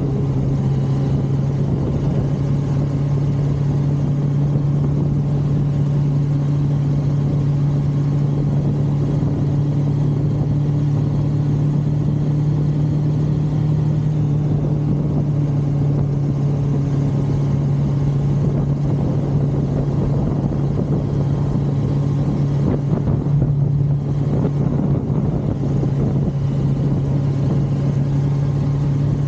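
A 1982 Suzuki GS550L's air-cooled inline-four engine running at a steady pitch while the motorcycle is ridden, rougher-sounding for a stretch past the middle.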